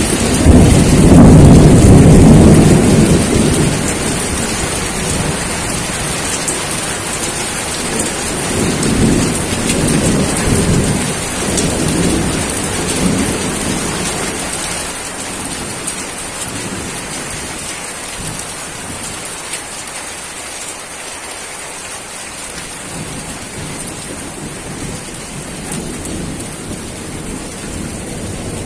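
Steady rain with rolling thunder: a low rumble loudest in the first few seconds, a second roll a few seconds later, then dying away and leaving the hiss of the rain.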